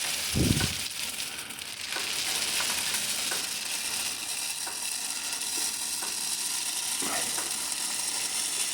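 Chicken feed pouring and shifting into a poultry feeder, a steady sizzling hiss with a few faint clicks, and a dull thump about half a second in.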